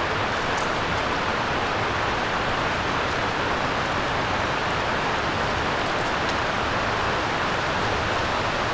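Steady, even hiss like falling rain, with a few faint ticks.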